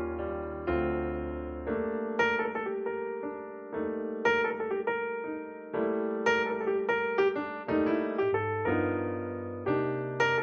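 Background piano music: gentle chords and melody notes, each struck and fading, over a slow bass line.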